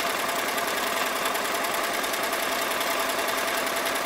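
Singer Model 337 sewing machine running steadily, sewing a straight stitch: motor hum with the fast, even chatter of the needle and feed mechanism.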